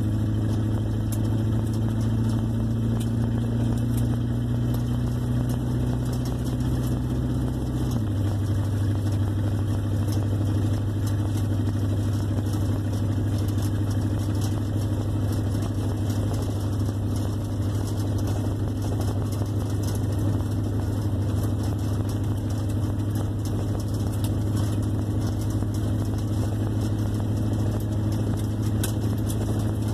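1958 Plymouth Suburban's engine running steadily as the car is driven; about eight seconds in, its note drops suddenly to a lower pitch and then holds there.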